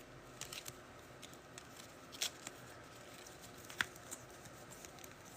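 Faint, scattered light clicks and rustles of trading cards being handled and set down, a few sharp ticks several seconds apart.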